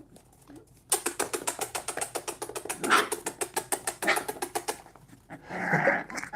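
A fast, even run of clicks, about nine a second, for some four seconds, then puppies growling as they play-fight, starting near the end.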